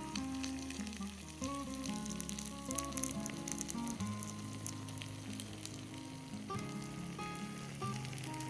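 Food sizzling with a dense fine crackle, steady throughout, under soft background music of sustained notes.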